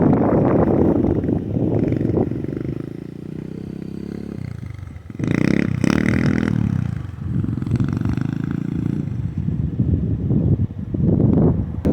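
SSR pit bike's small four-stroke single-cylinder engine being revved under load, easing off to a lower, quieter note for a couple of seconds, then a sudden hard rev about five seconds in and more bursts of throttle near the end.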